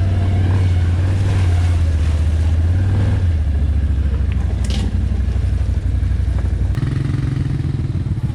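ATV engine running at low speed. Its note drops to a lower idle about three seconds in and changes again near seven seconds.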